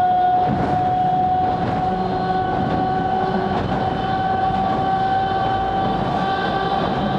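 Hokusei Line narrow-gauge (762 mm) electric train running, a steady high whine that creeps slightly up in pitch over the rumble of the wheels.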